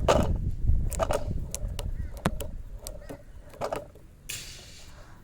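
Stunt scooter wheels rolling on wet pavement, the rumble fading as the scooter slows, with several sharp clacks. A short hiss comes about four seconds in.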